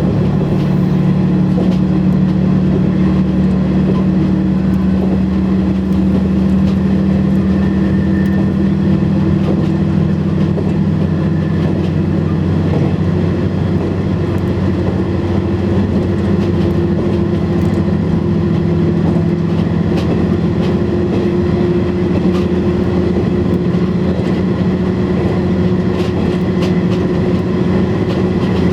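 KiHa 100 diesel railcar under way: its diesel engine runs steadily, with a hum that slowly rises in pitch, over the even rumble of the wheels on the rails and a few faint clicks.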